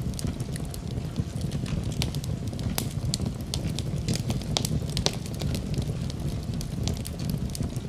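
Wood fire burning in a fireplace: a steady low rumble of flames with many sharp, irregular crackles and pops from the burning wood.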